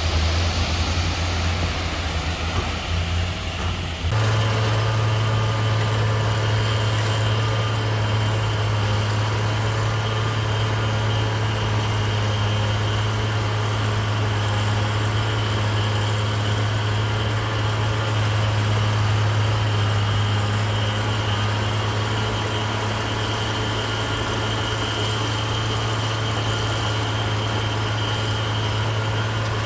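Heavy diesel engine of earthmoving machinery running steadily at low revs. The sound shifts abruptly about four seconds in, after which a faint high whine runs along with the engine hum.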